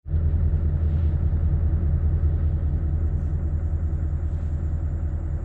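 Scania V8 truck engine running with a steady low rumble.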